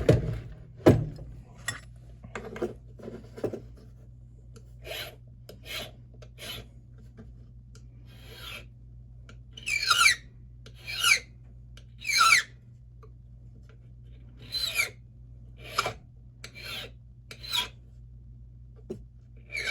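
Hand file rasping on a Schlage SC1 brass key blank in short, separate strokes, roughly one a second with pauses, some strokes falling in pitch as they go. The file is cleaning up the angle of an impression cut and deepening the third cut position during lock impressioning.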